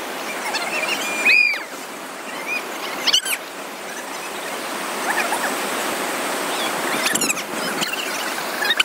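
Steady rush of moving water, with a few short high-pitched cries or squeals over it, about a second and a half in, about three seconds in, and about seven seconds in.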